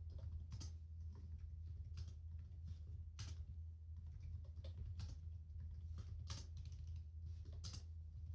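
Typing on a computer keyboard: irregular key clicks, a few a second with uneven pauses, over a steady low hum.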